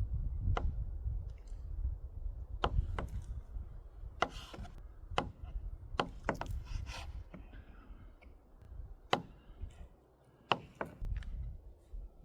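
A series of irregular sharp knocks and clicks, about a dozen, spaced unevenly, over a low rumble.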